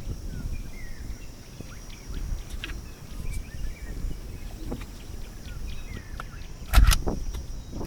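Small birds chirping in short scattered calls over a low rumble of wind, with a few light clicks and one loud knock a little before the end.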